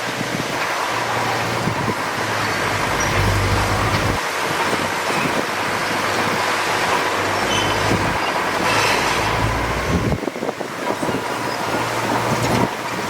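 Heavy diesel earthmoving machinery running steadily under load, a low engine drone over a wide rumbling noise. The drone drops away briefly about ten seconds in.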